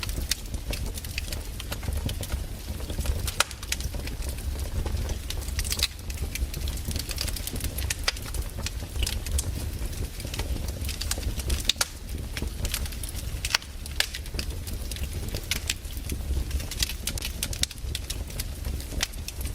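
Firewood burning in a fire, crackling with irregular sharp pops and snaps over a steady low rumble.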